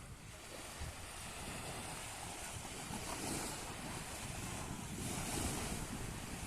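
Sea waves washing in, with hiss that swells every couple of seconds, over a low rumble of wind buffeting the microphone.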